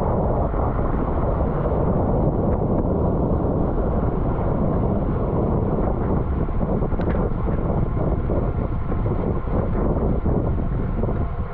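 Wind buffeting the microphone of a camera riding along on a bicycle at race speed: a loud, steady, low rush of noise.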